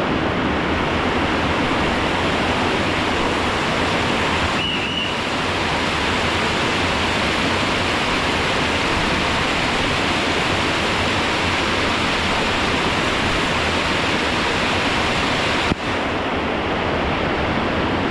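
Waterfall rushing: a loud, steady roar of falling water, with a single sharp click near the end.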